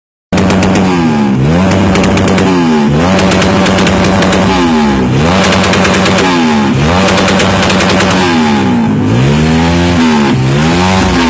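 Honda CB motorcycle with a loud, open exhaust, idling and blipped about every one and a half to two seconds, each rev rising and falling back to idle, with rapid cracking pops from the exhaust as the revs drop.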